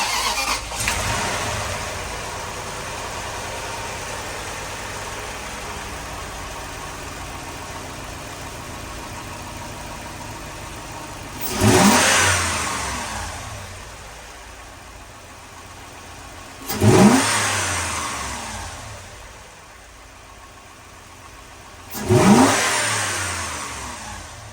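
2004 Lexus GX470's 4.7-litre V8 having just caught on its first start after being reassembled, flaring and then settling into a fast idle. The throttle is blipped three times, about five seconds apart, each rev rising quickly and falling back to idle.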